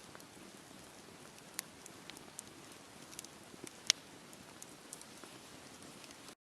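Wood fire burning in a fireplace: a steady low hiss with scattered crackles and pops, one sharp pop about four seconds in.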